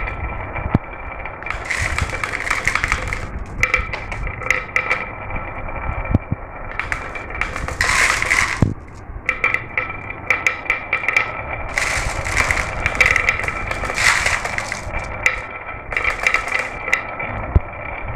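Marbles rolling and clattering down a marble run, with a dense stream of irregular clicks and rattles as they strike the track and each other. A steady high ringing tone runs underneath.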